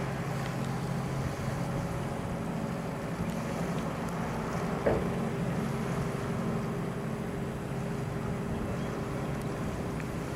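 A steady engine drone with a low, even hum and some wind noise, broken by a single short knock about five seconds in.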